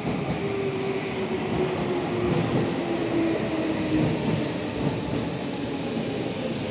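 Tobu Railway electric commuter train running into a station platform, wheels rumbling on the rails. Its motor whine falls slowly in pitch as the train brakes.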